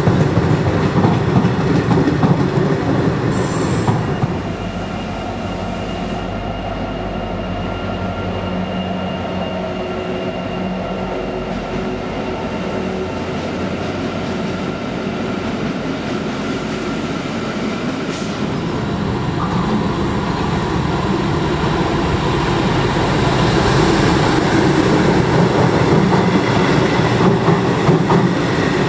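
Train of vintage passenger carriages rolling slowly past on the station track, wheels clattering over the rail joints. After a few seconds it settles into a quieter, steadier run with a thin high tone, then grows louder again as carriages pass close near the end.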